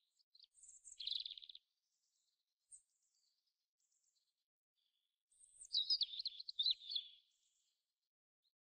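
Small birds chirping: a short high twitter about a second in, then a longer, rapid warbling phrase around six seconds in.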